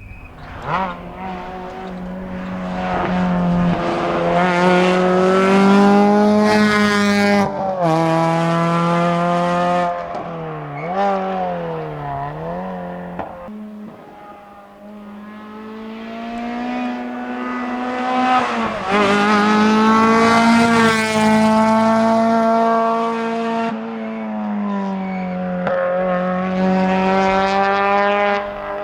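Rally-prepared Peugeot 206 RC's four-cylinder engine driven flat out: revs climb and hold high, then fall and waver under braking and downshifts before a short break. After the break the revs climb and hold high again.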